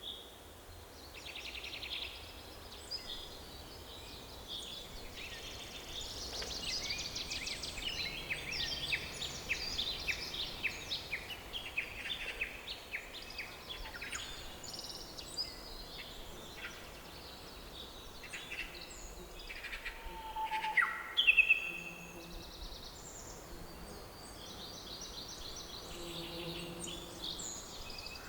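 Several songbirds singing and chirping together in a forest, with rapid trills and short calls overlapping throughout and one loud downward-sweeping call about two-thirds of the way through, over a faint low rumble.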